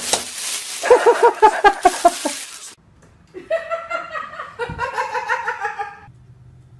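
A person laughing in a quick run of short bursts over a loud hiss, followed by a few longer, drawn-out voice sounds.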